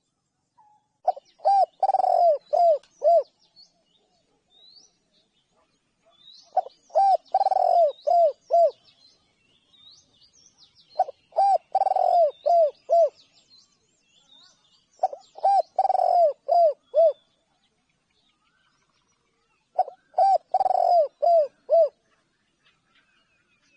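Spotted dove cooing: a phrase of several short coos around one longer note, repeated about every four seconds, five times. Small birds chirp faintly at a higher pitch in the background.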